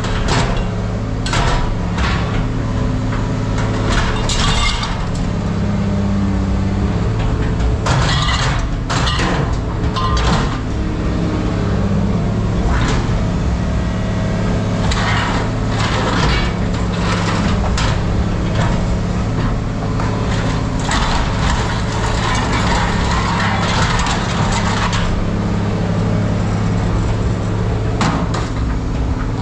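Steady low machine or engine hum with irregular knocks, cracks and clatters, coming in clusters, typical of scrap metal being handled and dropped at a scrapyard.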